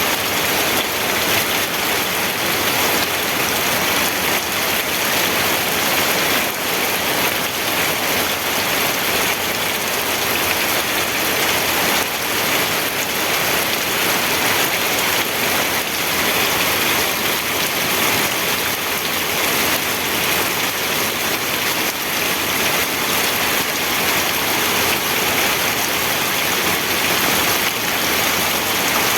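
Steady rain falling on a surface, a dense even patter of many small drops hitting without let-up.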